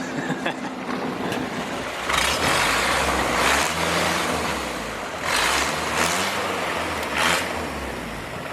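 Longtail boat engine revving hard in surges, with loud rushing noise, as the grounded boat tries to power itself free.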